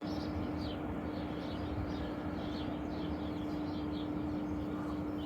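Small birds chirping over and over, with a steady background hiss and a constant low hum underneath.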